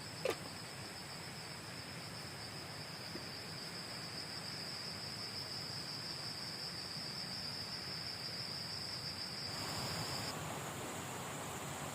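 An insect calls with one steady high-pitched trill over the even hiss of flowing river water, with a brief click just after the start. About ten seconds in, the rushing water grows louder and the trill stops.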